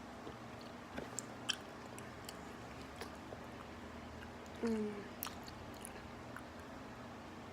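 Quiet chewing of a chewy gummy candy, with scattered small mouth clicks. A brief voiced 'mm' sound about halfway through.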